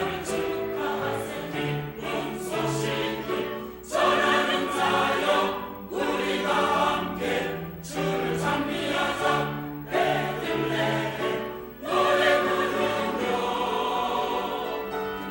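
Church choir singing an anthem in full harmony, in phrases of about two seconds with short breaks between them.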